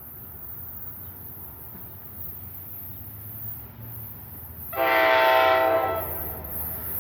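Locomotive air horn sounding one chord-like blast of a little over a second, about five seconds in, over the low rumble of a train.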